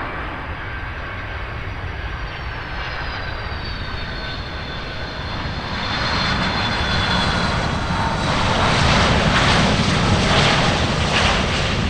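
Jet airliner passing by: its engine whine slides down in pitch in the first few seconds, then the engine roar grows louder and peaks near the end.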